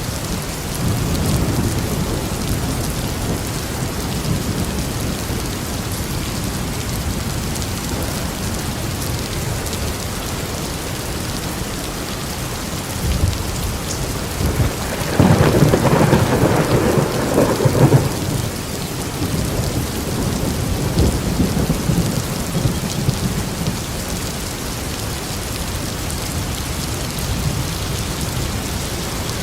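Steady heavy rain with thunder: a low rumble about a second in, a loud crack and roll of thunder about halfway through lasting a few seconds, then fading rumbles.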